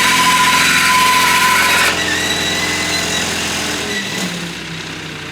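An engine running steadily. Its sound shifts abruptly about two seconds in and again near the end.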